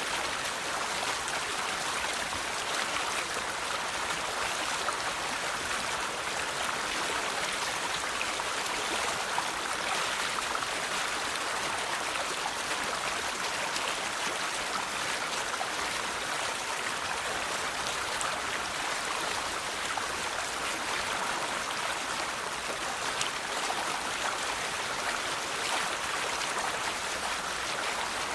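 River water flowing steadily over rocks, a continuous rushing babble with fine splashes.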